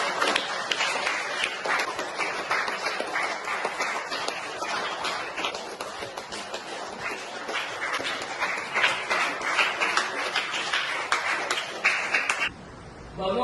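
Audience applauding: a dense mass of hand claps that eases slightly, then cuts off sharply near the end.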